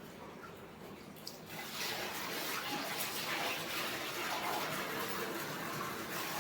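Buffalo being milked by hand: streams of milk squirting into a pail, which grows louder about a second and a half in.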